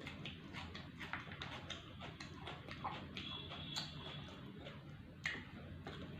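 Close-miked eating: chewing and crunching food, with irregular wet mouth clicks and crackles.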